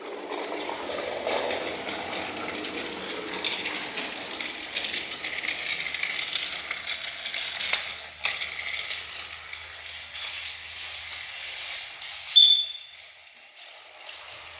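Battery-powered Trackmaster toy engine running along plastic track, its small gear motor whirring and the wheels rattling, with a sharp short high squeak about twelve seconds in, after which it goes quieter.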